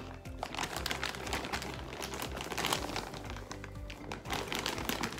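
Background music with crisp crunching from chewing caramel-coated popcorn close to the microphone, many short cracks throughout.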